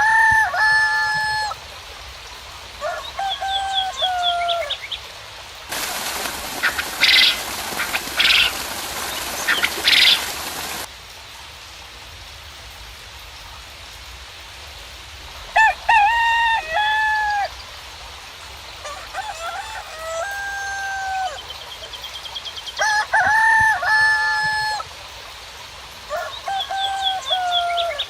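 Roosters crowing again and again, each crow a drawn-out call of a second or two, over a faint steady hiss. Between about six and eleven seconds in, a louder hissy stretch holds three shrill, high calls.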